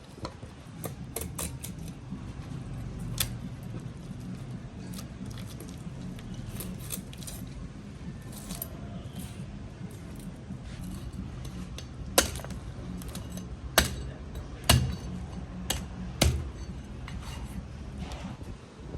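Kitchen utensils clinking and knocking in sharp, scattered strikes, several loud ones close together in the second half, over a steady low hum.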